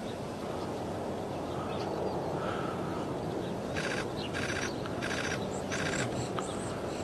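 A steady, noisy roar, with a bird giving four short, harsh calls in quick succession about four seconds in.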